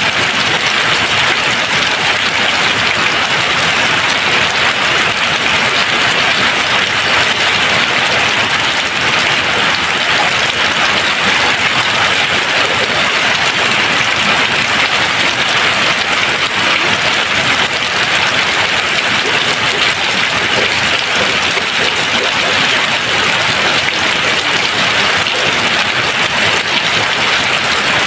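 Steady rain falling and pattering on a surface, an even hiss without thunder or pauses.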